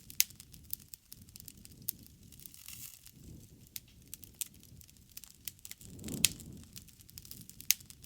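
Bonfire crackling: sharp pops of burning wood scattered irregularly over a low rushing of flames that swells twice. The loudest pop comes about six seconds in.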